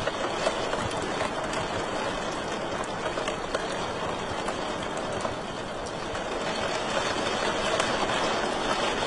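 Wood fire crackling in a fireplace: a steady rushing hiss with many small sharp snaps and pops scattered through it.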